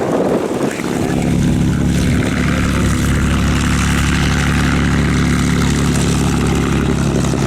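Propeller aircraft's piston engine running at a steady pitch, the engine note settling in about a second in and holding level.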